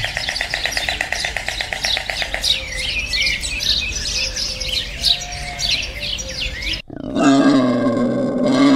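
Birds chirping, with a fast trill at first and then many short, quick chirps. About seven seconds in, a loud, low, drawn-out animal call cuts in and is the loudest sound.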